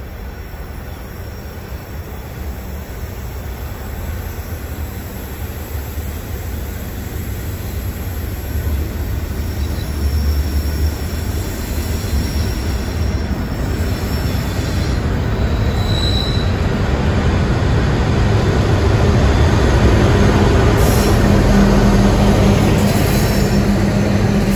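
Freight train led by two Aurizon diesel locomotives approaching and running past, the engines' low steady hum growing steadily louder as they draw near. About two-thirds of the way through there is a brief high-pitched squeal of wheels.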